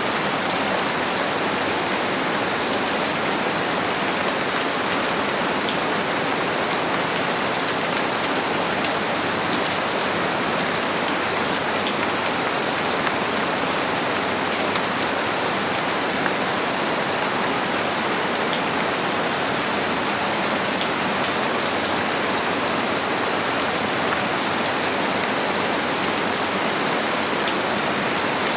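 Steady heavy rain falling, a dense even hiss of drops with fine patter, no thunder.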